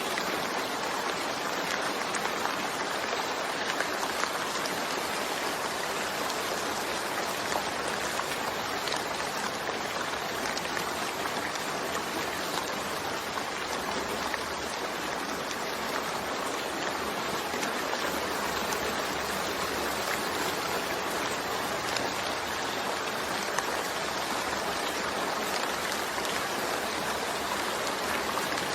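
Steady rain falling: a dense, even hiss of drops with many small individual drop ticks.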